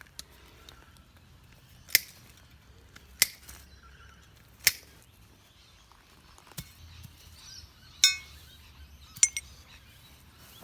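A series of sharp metal knocks and clinks, spaced a second or more apart. Two near the end ring briefly like struck metal.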